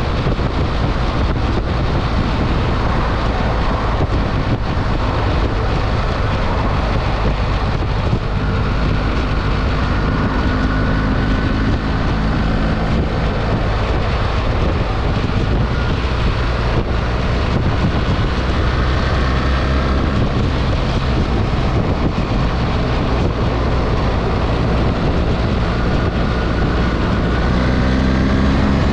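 BMW R 1300 GS boxer-twin motorcycle engine running under way, with heavy wind noise on the microphone. The engine note rises at times as the bike accelerates.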